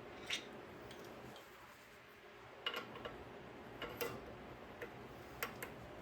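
A handful of light metallic clicks and taps at irregular intervals, as a pin is worked into the yoke of a Coleman axle during reassembly.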